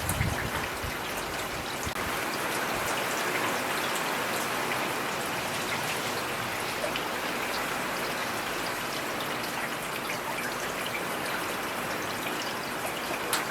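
Heavy rain falling steadily, with individual drops ticking sharply on a surface. There is a brief low rumble right at the start.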